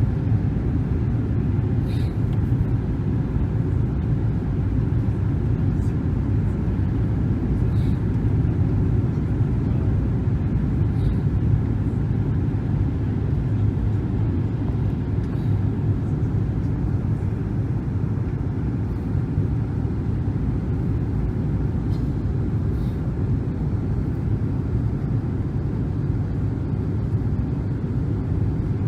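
Steady low rumble of a Boeing 777-300 airliner's cabin on descent: engine and airflow noise, with a few faint ticks scattered through it.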